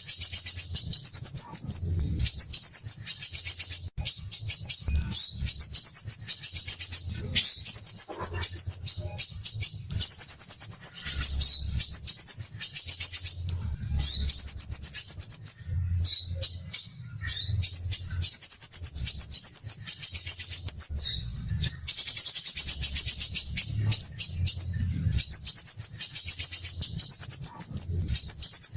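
Crimson sunbird (sepah raja) singing its coarse, dense, rapid trilled phrases, high-pitched, one after another with brief pauses. A faint low rumble runs underneath at times.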